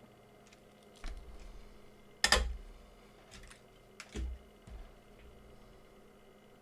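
A few scattered clicks and knocks, like small objects or tools being handled on a bench; the loudest is a sharp knock about two seconds in.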